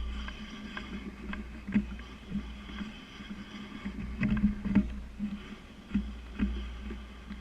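Bicycle ride noise: a steady low wind rumble on the microphone with irregular knocks and rattles, a few of them louder, about four and a half and six seconds in.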